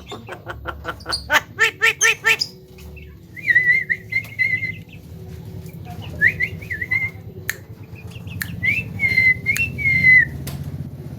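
Javan myna (jalak kebo) calling: a fast run of harsh, rattling notes, then several whistled, warbling phrases with short pauses between them, broken by a few sharp clicks.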